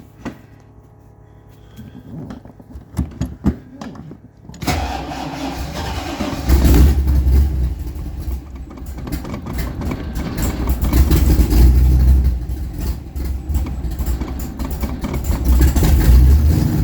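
Superformance car's engine cold-started after a week sitting: an electric fuel pump hums faintly with a few clicks, then about four and a half seconds in the engine fires and keeps running loudly, its level swelling and dipping several times as it warms.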